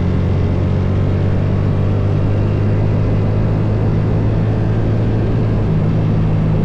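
Motorcycle engine running at a steady, unchanging pitch, a continuous low drone with road noise over it.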